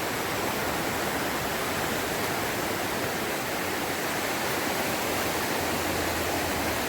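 Creek water rushing steadily, an even, unbroken hiss of running water.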